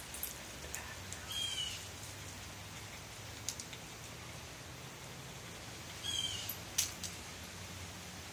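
A bird chirping: a short warbled call about a second in and again near the end, over a faint steady low hum, with a couple of light clicks in between.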